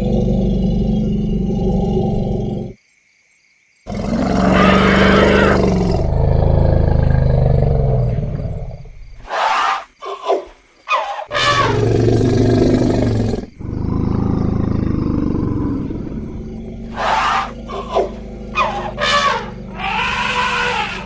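Elephants calling: low rumbling and bellowing calls alternating with several short, high, brassy trumpets. The sound cuts out for about a second near the start, then resumes with a loud, longer call.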